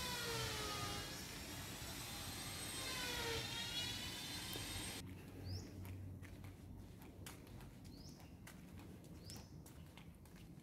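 Outdoor ambience. For the first five seconds a pitched sound with many overtones dips and rises in pitch twice. After an abrupt change about five seconds in come three short rising bird chirps and scattered light clicks.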